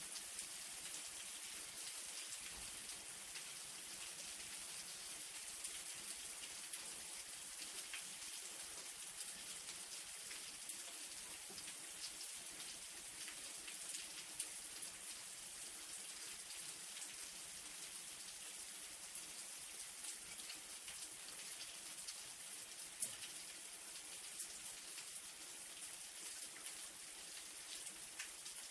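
Steady light rain: an even hiss with many small drops pattering on a surface and a few louder single drips now and then.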